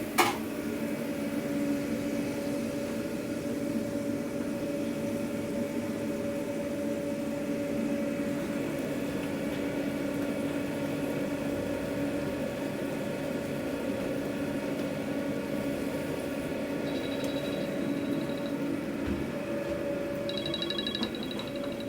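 Steady mechanical hum of food truck kitchen equipment. A phone's ringtone starts, briefly at first and then again near the end.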